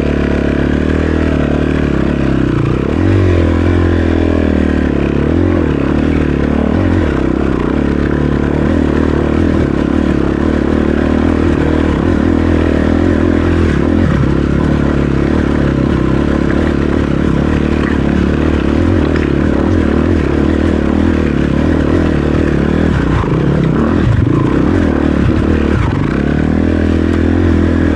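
Dirt bike engine running steadily under throttle on a rocky trail, its pitch shifting a little as the rider works it, with scraping and clattering over the top.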